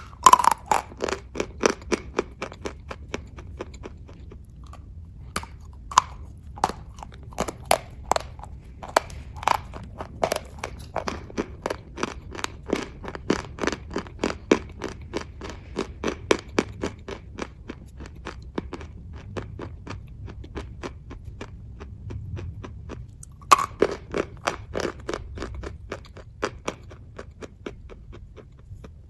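A person chewing kaju katli, the cashew fudge sweet, close to the microphone: a steady run of sharp, moist mouth clicks and crunches at about two to three a second. Louder bursts come at the start and again about 23 seconds in.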